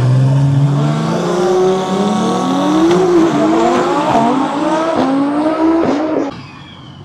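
Drag race cars accelerating hard down the strip, their engines climbing in pitch with several upshifts. The sound fades away sharply near the end.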